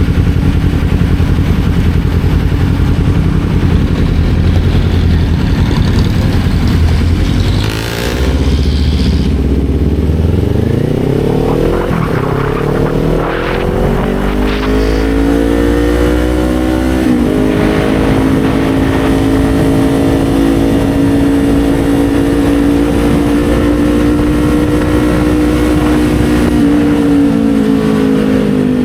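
Kawasaki Z400 parallel-twin engine heard from the rider's seat over wind rush. The engine note drops about eight seconds in, then rises steadily as the bike accelerates. After a short break in the note, likely a gear change, it settles into a steady cruise and sags slightly near the end.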